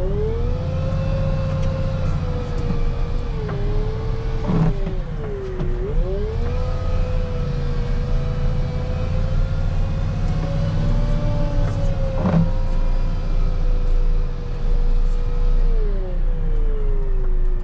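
Volvo rubber-tire wheel loader running under load while scraping snow: a steady low diesel rumble with a whine that dips and rises in pitch as the machine slows and speeds up. Two sharp clunks, one about 5 seconds in and one about 12 seconds in.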